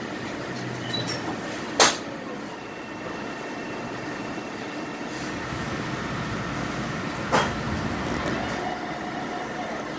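Metro-North commuter train running, heard from inside the passenger car as a steady rumble and rattle. Two sharp knocks stand out, about two seconds in and again after seven seconds.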